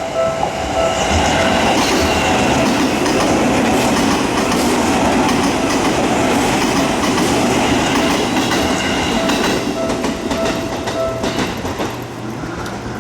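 Seibu commuter train passing over a level crossing, its wheels clattering on the rail joints. The crossing's warning bell rings in a steady repeating ding and stops about eleven seconds in as the train clears.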